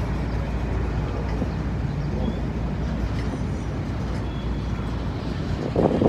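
Freight train of empty auto rack cars rolling past with a steady rumble of wheels on rail. A louder rush of noise comes in near the end.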